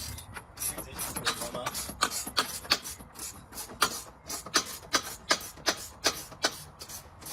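Repeated rasping strokes, about three a second, with a short pause near the middle.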